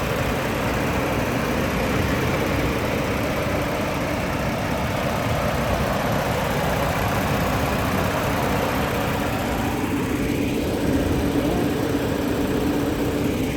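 Engine of a 2022 Lincoln Aviator, a 3.0-litre twin-turbo V6, idling steadily with the hood open.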